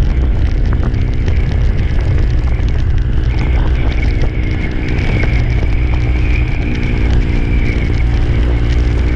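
Motorcycle engine running under way, with wind rushing over the microphone; the engine note fades back partway through and comes up again near the end.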